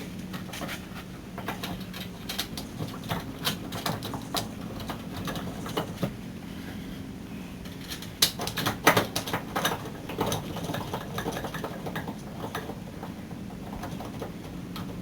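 Irregular sharp clicks and metallic clinks of hand tools working as a brake caliper is bolted back on over a new rotor, with a steady low hum underneath. The clicks come thickest about two to four seconds in and again around eight to ten seconds.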